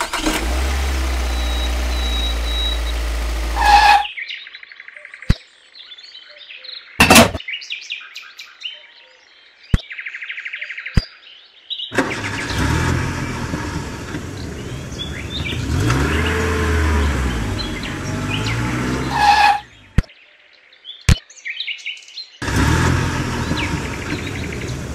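Tractor engine sound effect running steadily in three stretches, with birds chirping in the gaps between them and a few sharp clicks.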